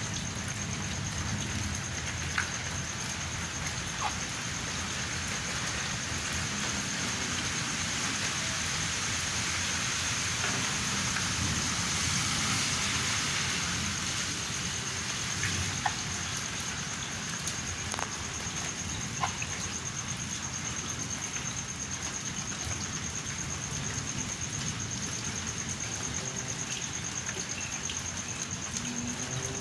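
Steady rain pouring down during a thunderstorm, swelling slightly about halfway through, with a few sharp ticks of drops striking something close by.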